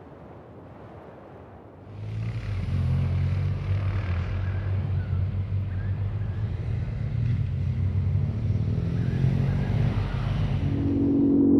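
Adventure motorcycle engine running under way. It comes in louder about two seconds in after a quieter rushing start, then holds a fairly steady note. Near the end a steady low hum comes in.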